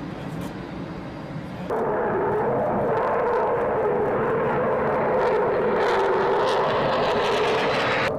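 Fighter jet engine noise: a low rumble, then, after a sudden cut about two seconds in, a louder steady jet whine.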